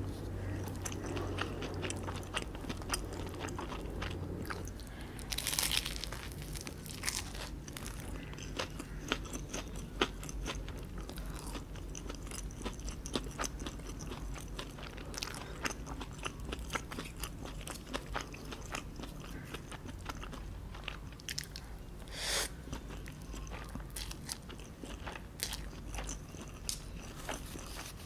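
Close-miked eating: steady chewing and biting with many crisp crunches and wet mouth clicks, and twice a louder rush of noise.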